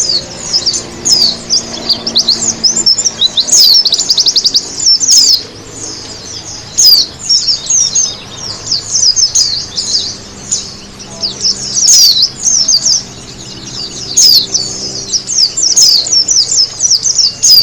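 White-eye (pleci) singing: a fast, continuous high twittering of short chirps that slide up and down in pitch, with brief lulls.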